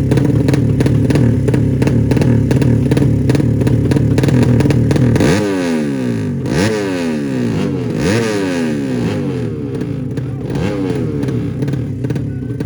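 Drag-race motorcycle engines in a 200 cc class: a loud steady run of engine noise, then from about halfway through a series of sharp throttle blips, each rev rising quickly and falling away, three strong ones followed by weaker ones.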